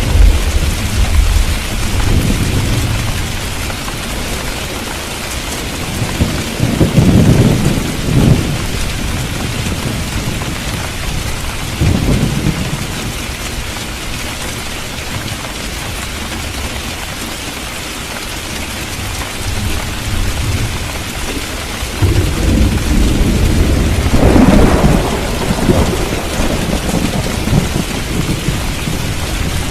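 Steady rain falling, with rolling thunder. A rumble comes about seven seconds in and a shorter one around twelve seconds; a longer, heavier roll of thunder builds from about twenty-two seconds in and lasts several seconds.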